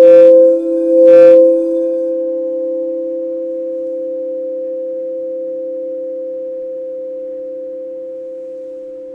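Two crystal quartz singing bowls ringing together in two steady pure tones, one higher and one lower. Two light strikes about a second apart near the start, then both tones ring on, slowly fading.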